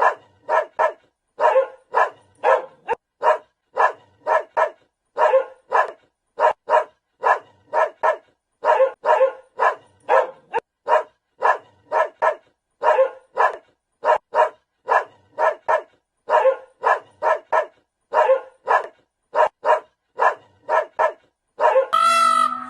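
A dog barking over and over in short barks, mostly in pairs and threes with clean gaps between. Near the end a different drawn-out, wavering sound takes over.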